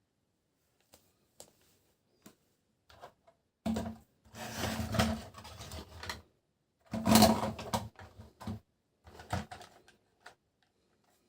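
Toys and packaging being handled: scattered light clicks and knocks, with two longer stretches of rattling and rustling about four and seven seconds in, the second the loudest.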